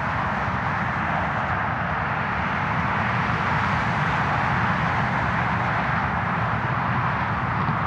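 Steady freeway traffic noise: an even rushing hum with no breaks or distinct events.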